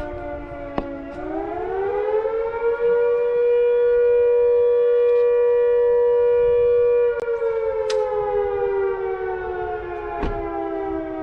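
Emergency-services call-out siren wailing: its pitch rises over about two seconds, holds steady, then slowly falls from about seven seconds in. It is the signal that summons the emergency services.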